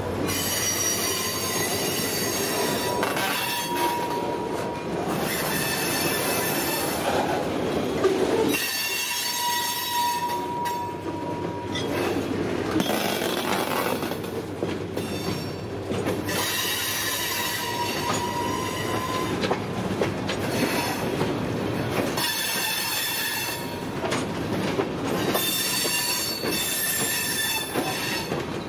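Train rolling by, its steel wheels squealing against the rail on and off over a steady rumble.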